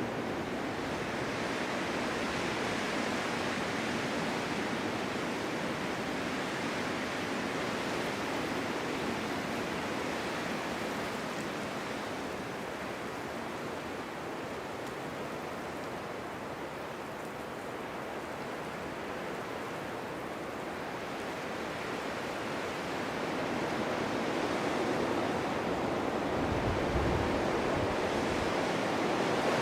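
Strong winter wind blowing steadily in gusts, easing off about halfway through and building again toward the end, with a brief low buffet near the end.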